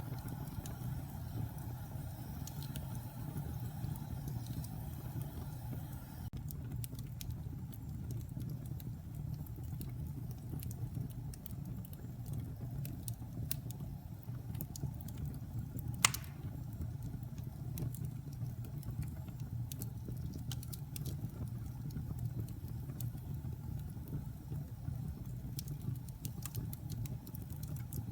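Wood fire burning in a fireplace: a steady low rumble of flames with scattered small crackles and one loud pop about halfway through.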